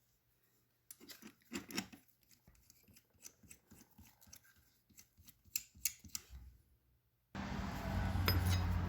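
Hand tool clicking and scraping against the screws and metal casing of a submersible motor as the tight screws are worked on, in scattered sharp strokes. About seven seconds in, a steady humming noise starts abruptly.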